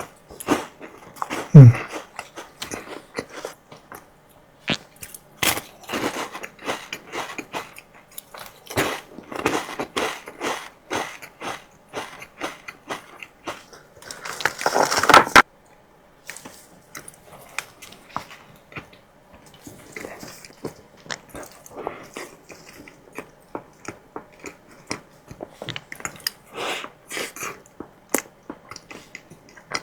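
Close-miked eating of chocolate desserts: repeated bites, crunches and chewing with wet mouth clicks. A short falling-pitched sound about a second and a half in is the loudest moment, and a louder noisy rustle or scrape comes around fifteen seconds in.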